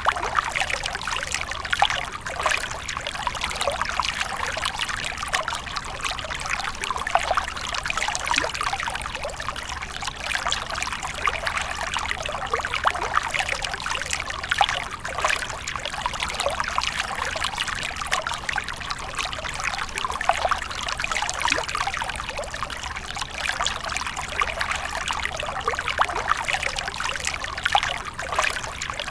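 Water splashing and trickling continuously, with many small irregular splashes over a steady rush.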